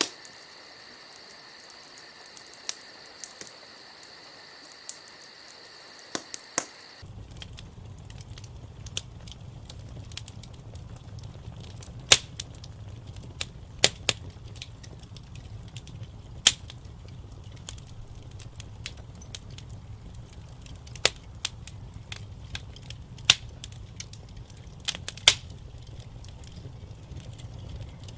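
Wood fire crackling in a fireplace, with sharp pops and snaps scattered at irregular intervals. A faint steady high whine sits under the first seven seconds, after which a low steady rumble of the fire comes in and stays.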